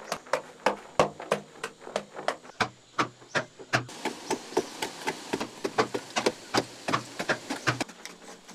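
Repeated hammering-type strikes, about three or four a second, each with a short low ring, kept up at an even pace.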